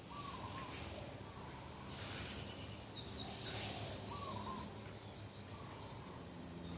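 Dove cooing: a short wavering call at the start and again about three and a half seconds in, with another small bird giving a few high chirps in between, over a steady outdoor hiss.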